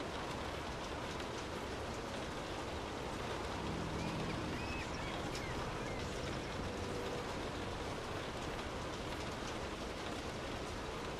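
Steady rain falling, an even hiss dense with fine drop patter.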